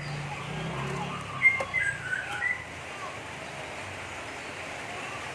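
Oriental magpie-robin calling: a quick cluster of short, harsh chirping notes about one and a half to two and a half seconds in, over a steady hiss.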